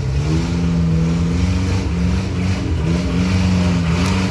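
Trail motorcycle engine revving: its pitch climbs in the first half second, then holds high with small dips and climbs.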